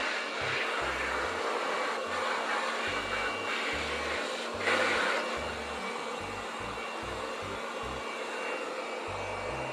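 Corded handheld electric blower running steadily as it is pointed down at a slatted pen floor, briefly louder a little before halfway.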